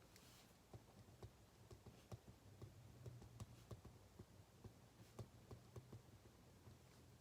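Faint ballpoint pen writing on paper: small irregular clicks and taps over a low steady hum.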